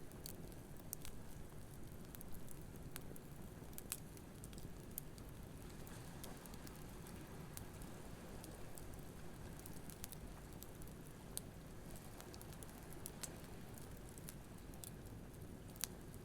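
Wood campfire crackling, with scattered sharp pops at irregular intervals, over a steady low wash of waves on the beach.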